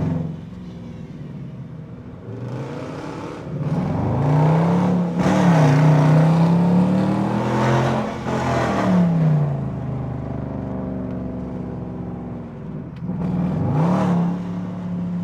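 Dodge Durango R/T's V8 engine revving up under hard acceleration, its pitch rising and falling several times, loudest from about four to nine seconds in, with another surge near the end.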